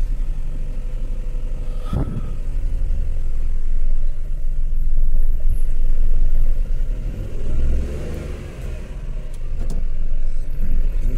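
Car engine running with a low rumble that swells in the middle and eases off later, just after being started with an outside power supply. A sharp click sounds about two seconds in.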